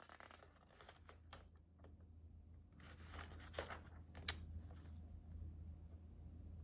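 Faint handling sounds: a few soft clicks and short rustles, with a steady low hum underneath.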